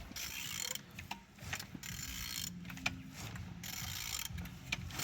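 The crankshaft of a BMW N46B20 four-cylinder petrol engine is turned over by hand with a ratchet wrench, in repeated strokes with ratchet clicking between them. The engine is turning freely.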